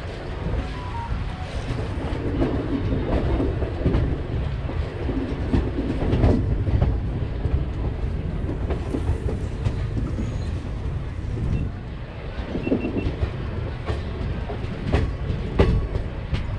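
Express train coach running at speed, heard from beside the moving coach: a steady low rumble of wheels on rail, with clickety-clack over the rail joints and a quicker run of sharp clacks near the end.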